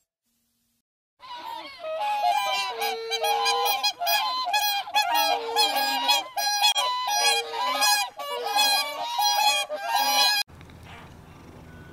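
A group of birds giving many short, repeated calls that overlap one another, starting about a second in and cutting off abruptly near the end, where a quieter low steady sound takes over.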